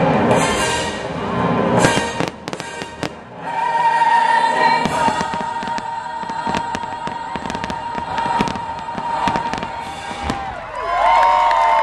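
Fireworks finale: rapid bangs and crackling bursts over the show's orchestral soundtrack, which holds one long note through the middle. Near the end the blasts thin out and whistles and cheering start up.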